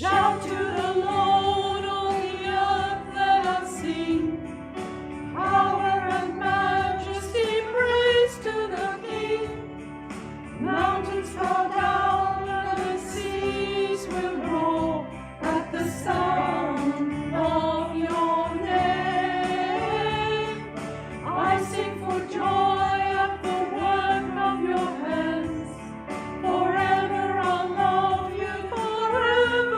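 A church singing group of mixed voices singing a worship hymn, in phrases of a few seconds with held notes.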